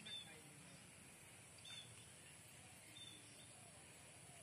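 Near silence with a bird's faint short chirps, three in all, about a second and a half apart, over a steady faint hiss.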